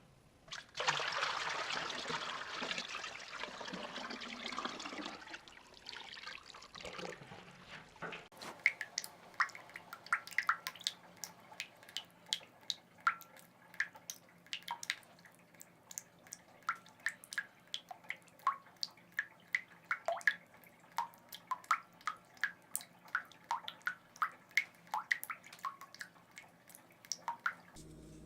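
Water being poured: a steady splashing pour for about seven seconds. Then it cuts to water drops falling one at a time, each a short sharp plink, about two drops a second.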